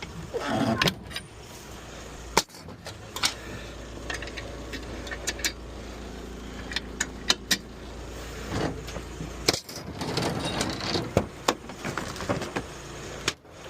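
Metal clanks and knocks of vehicle wheel skates being handled and fitted under a car's locked front wheels. A steady low hum runs underneath from about two and a half seconds in until about nine and a half seconds.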